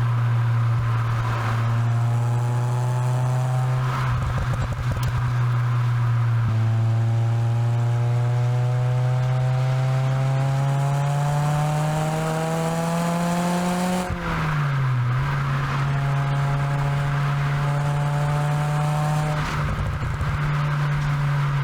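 Ford Fiesta exhaust recorded close to the tailpipe while driving. The engine note holds steady, then climbs slowly through a long pull and drops sharply at a gear change about two-thirds in, and again near the end. In between gears there are rough patches of little pops and bangs from the exhaust.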